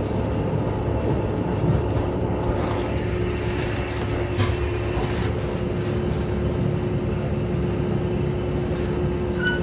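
Diesel railcar running along the line, heard from inside the passenger cabin: a steady rumble of engine and wheels with a constant hum through it, and a few light knocks.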